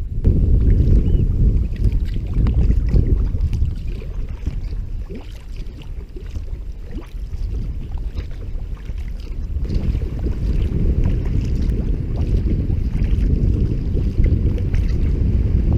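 Wind rumbling hard on the microphone, easing for a few seconds midway and then picking up again, with splashes of water from a sea kayak under way.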